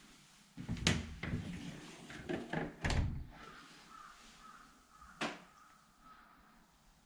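Knocks and clatter of a door or cupboard being opened and shut, running for a couple of seconds, then a single sharp click a few seconds later.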